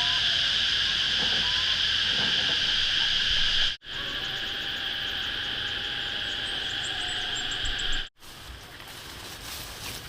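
Steady, high, continuous buzzing of an insect chorus. The sound breaks off abruptly twice at edit cuts, and after the second cut near the end the buzzing is gone, leaving light scattered clicks.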